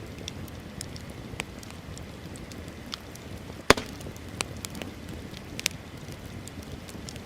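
Wood bonfire crackling: a steady low rush of flames with scattered sharp pops, one loud pop about halfway through and a few smaller ones after it.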